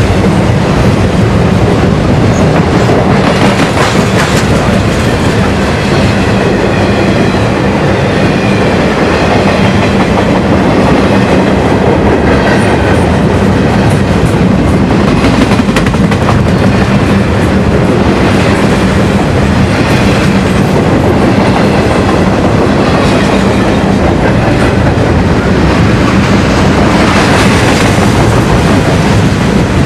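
A train rolling past close by, its wheels clattering steadily over the rails, with a faint high wheel squeal at times.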